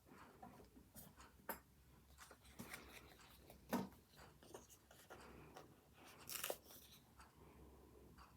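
Faint desk sounds of pen-and-paper work: short scratches of a pen on paper with paper rustles and small taps, the sharpest tap about four seconds in and a brief rustle a couple of seconds later.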